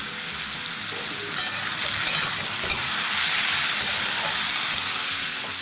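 Diced potatoes and raw Gobindobhog rice frying in hot oil in a steel kadai: a steady sizzle that grows louder about two seconds in. A spatula stirs through the pan with a few faint scrapes.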